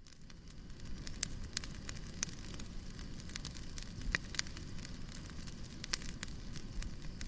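Fireplace fire crackling: irregular sharp pops and snaps over a steady low rumble of burning, fading in over the first second.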